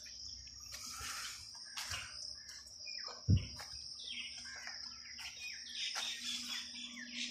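Birds chirping and calling in a scattered chorus, over a steady high buzz, with a single dull thump about three seconds in.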